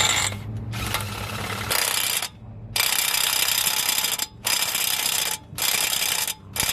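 Air impact gun hammering in a series of short bursts with brief pauses between them, driving the 32 mm front axle nut tight on the hub.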